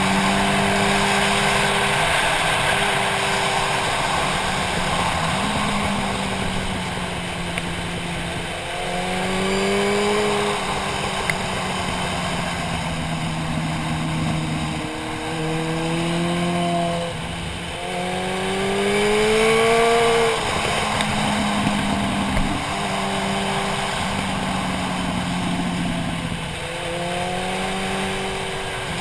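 Motorcycle engine heard from the rider's helmet camera, pulling hard several times with its pitch climbing and then dropping back, with breaks at the gear changes. A steady rush of wind and road noise runs underneath.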